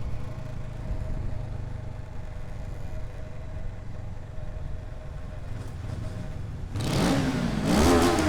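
650 cc motorcycle engine running steadily at low revs, then about seven seconds in revved hard several times, its pitch swooping up and down, echoing in a road tunnel.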